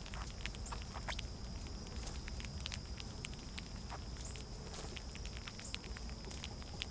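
Irregular light clicks and patter of small birds feeding at a feeder, over a steady high-pitched hum.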